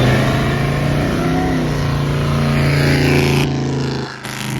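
Car engine running, with a brief rising rev about a second in.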